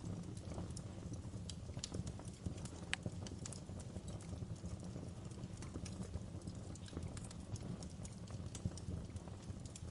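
Wood fire crackling in a fireplace: frequent, irregular sharp pops and snaps of burning logs over a low steady rumble.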